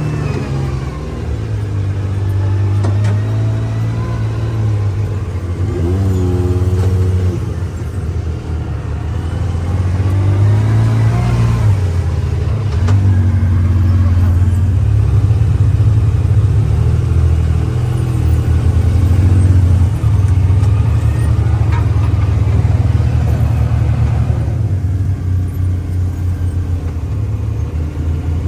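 Side-by-side UTV engine running under way over a steady low rumble, its revs rising and falling several times.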